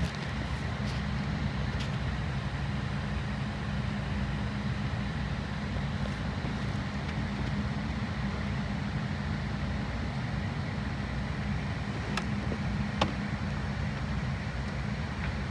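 Steady hum of an airliner cabin: ventilation and air-conditioning noise over a low drone. Two sharp clicks come about three-quarters of the way through.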